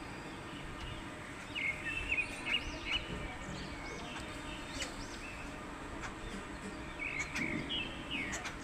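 Small birds chirping, quick rising and falling notes in two spells, one about two seconds in and one near the end, over steady background noise.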